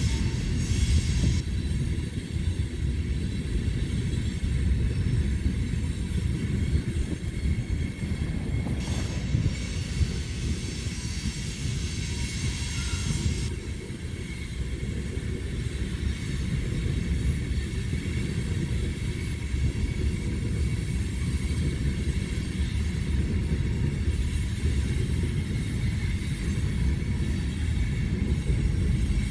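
BNSF freight train of two-bay covered hopper cars rolling past, a steady low rumble of the cars' wheels on the rails. A higher hiss rises for a few seconds about nine seconds in.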